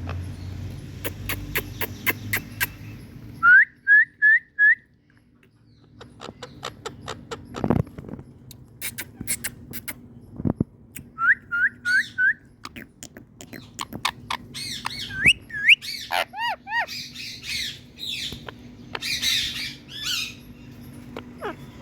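Pet parrot calling: two runs of four short, rising squawks, then a longer stretch of varied screeches and chatter, with sharp clicks scattered between the calls.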